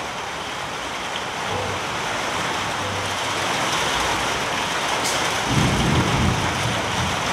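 Heavy rain pouring steadily, with a low rumble building in the second half.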